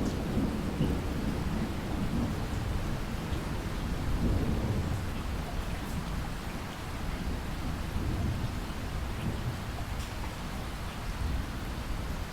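Steady rain with low, rolling thunder rumbling under it, strongest in the first seconds and again about four seconds in, easing off toward the end.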